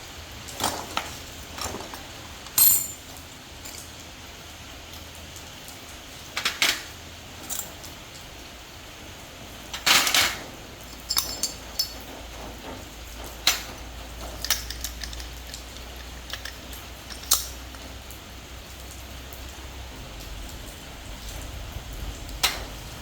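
Metal tools and parts clinking and knocking on a workbench, in scattered single strikes, a few with a short metallic ring.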